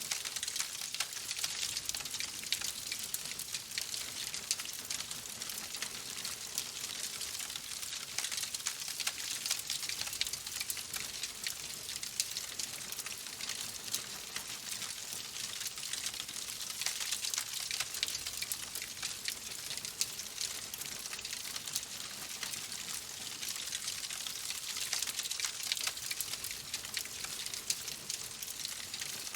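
Steady rain: a dense, even hiss of falling water with a constant patter of fine drop clicks.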